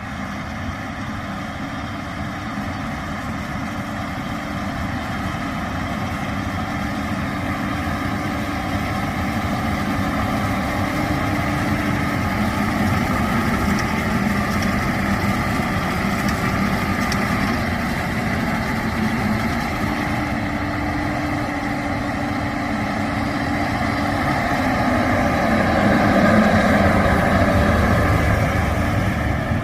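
John Deere 6R 250 tractor's six-cylinder diesel engine running steadily while pulling a ROC RT 730 rake through the field. The engine gradually grows louder and peaks a few seconds before the end.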